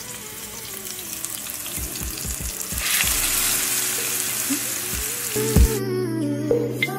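Raw chicken breasts sizzling as they fry in hot olive oil in a frying pan, the sizzle growing louder about three seconds in. Background music comes in near the end.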